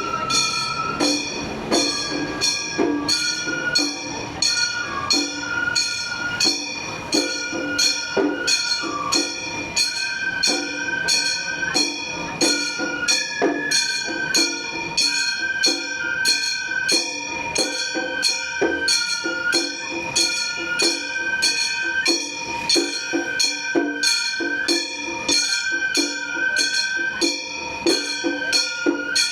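Gion bayashi festival music: small brass kane gongs struck in a fast, even rhythm, about three strikes a second, ringing over a high bamboo fue flute melody that holds and steps between notes, with drum beats underneath.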